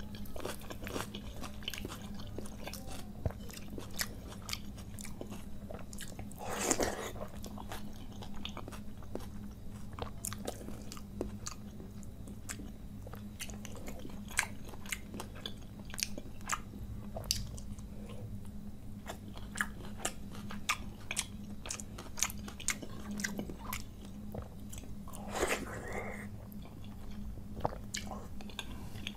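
Close-miked wet chewing and lip smacks of a man eating soaked rice and hilsa fish fry by hand, many small clicks and smacks. Twice a longer, louder mouth sound stands out, about seven seconds in and near the end, over a faint steady hum.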